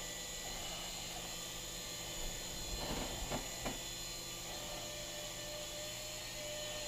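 Swann Micro Attack indoor RC helicopter in flight, its small electric motors and rotors giving a steady whine and buzz. A few brief knocks come about three seconds in.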